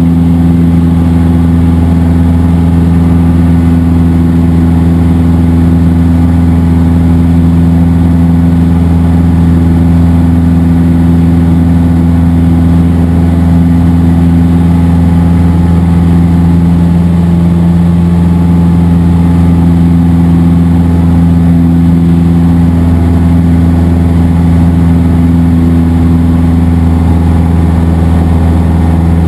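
Cessna 172SP's four-cylinder Lycoming engine and propeller running steadily: a loud, even drone.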